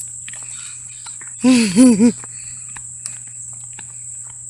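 A steady, high, thin trill of insects, such as crickets, runs throughout. About a second and a half in, a short vocal sound of three quick rising-and-falling notes is heard.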